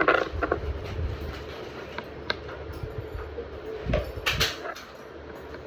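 Scattered clicks and knocks of building pieces being handled and fitted together, a few sharp ones near the start, one a little after two seconds and a cluster around four seconds, over a steady low rumble.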